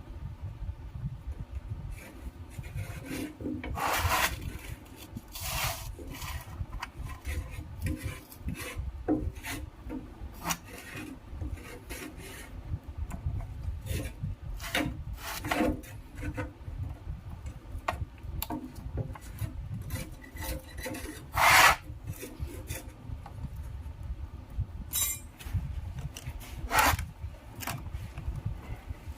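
Hands-on repair work on a starter motor: irregular scraping and rubbing strokes with scattered knocks and clacks of parts and tools, a few of them sharper and louder.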